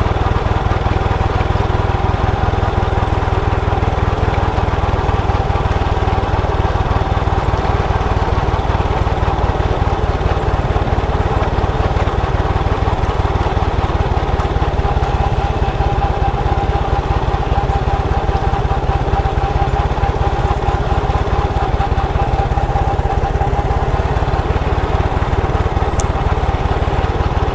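Motorcycle engine running steadily under way, a constant, unbroken engine note with no change in speed.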